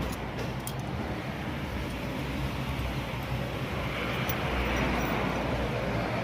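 Steady traffic-like background noise with a low hum, swelling about four seconds in, and a couple of light clicks near the start.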